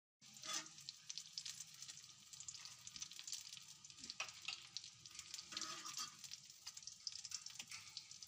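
Potato-chicken kababs shallow-frying in oil on a flat iron griddle: a steady crackling sizzle with many small spattering pops, starting abruptly.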